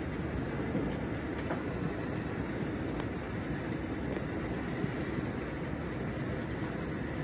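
Passenger train running at speed, heard from inside the carriage: a steady low rumble with a few faint clicks.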